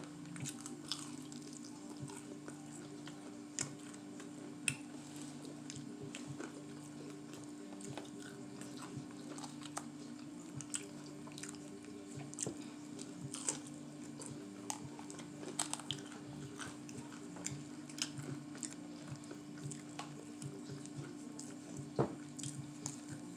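A person chewing and biting fried chicken strips close to the microphone, with scattered sharp crunches and mouth clicks. A steady low hum runs underneath.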